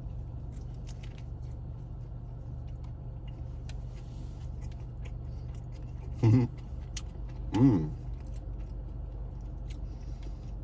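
A biscuit sandwich being chewed with the mouth closed, with faint soft ticks. Twice, about six and seven and a half seconds in, comes a short hummed "mm" of enjoyment. A steady low hum inside the car runs underneath.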